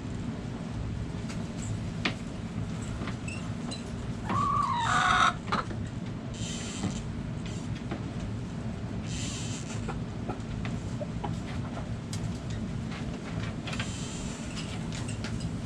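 Backyard chickens with one loud call about four seconds in, lasting about a second, over a steady low rumble. A few short scratchy noises follow later on.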